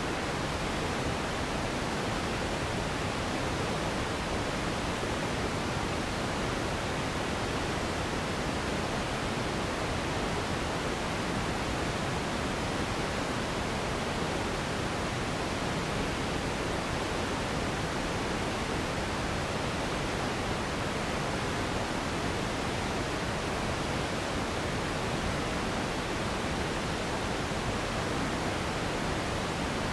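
Steady relaxation noise for sleep: an even, unchanging hiss with no rhythm or events, spread across the whole range and softer in the highest treble.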